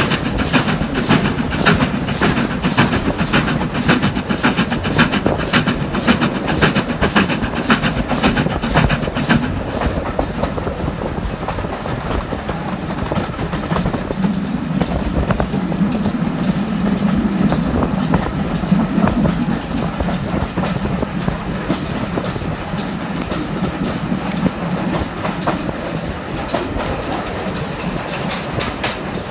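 Steam-hauled train heard from an open carriage window, with a Stanier Black 5 4-6-0 at the head and the carriage wheels running on the track. Sharp rhythmic beats come about twice a second, then fade out about ten seconds in, leaving a steady rumble of running noise.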